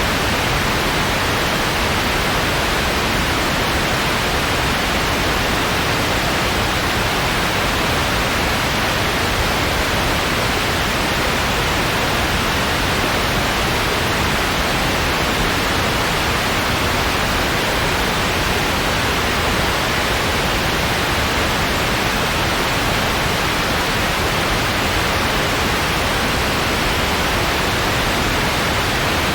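Steady synthetic noise, a constant even hiss with nothing else in it.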